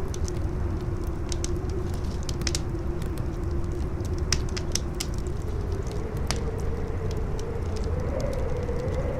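Campfire crackling with scattered sharp pops over strong howling wind, with a low rumble and a wavering moan whose pitch rises a little about five seconds in.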